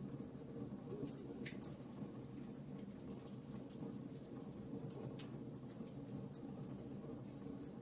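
Wood fire burning in a fireplace: a steady low rumble of flames with frequent small crackles and pops from the burning logs, one pop a little louder about six seconds in.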